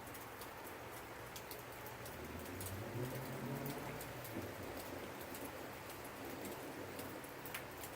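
Steady rain with individual drops ticking sharply on a surface, and a low rumble of thunder swelling and fading in the middle.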